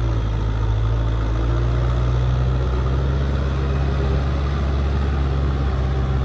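Kubota M8540 tractor's four-cylinder diesel engine running steadily at an even, low speed.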